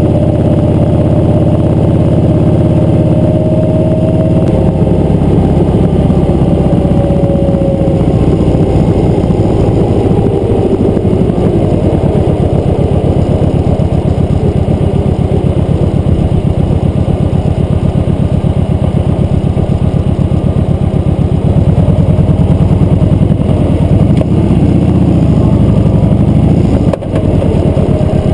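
Motorcycle engine running while riding, its speed shifting up and down several times, with a brief dip near the end.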